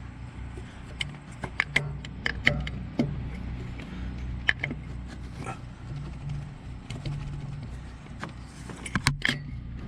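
Metallic clicks and knocks of a distributor being handled, lifted and seated back into the engine while its gear teeth are lined up, in scattered groups with two louder knocks near the end. A low steady hum runs underneath.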